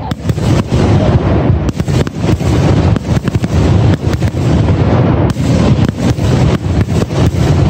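Aerial fireworks shells bursting in rapid succession, a dense, unbroken string of loud bangs and booms: the finale barrage of a fireworks display.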